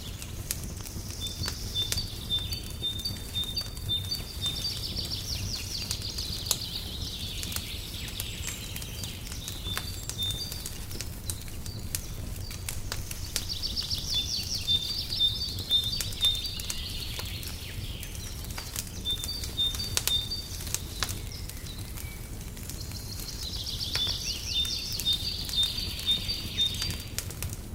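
Wood fire crackling in a fireplace, with scattered sharp pops over a steady low rumble. A songbird sings through it in bursts of rapid, evenly repeated high notes, about four phrases.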